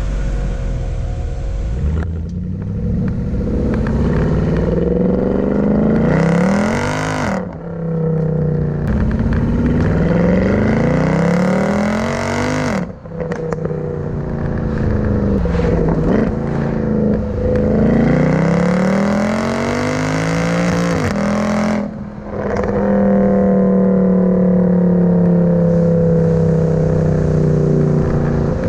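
Mercedes C63 AMG's 6.2-litre V8 revving repeatedly, its pitch climbing and then dropping sharply several times. Near the end it holds a steadier note that slowly sinks.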